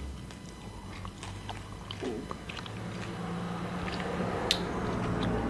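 Close-miked gum chewing: scattered wet mouth clicks and pops. A low steady hum comes in underneath from about halfway.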